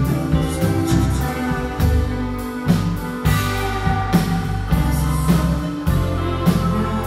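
Live indie rock band playing an instrumental passage: guitars, bass and drum kit, with steady drum hits.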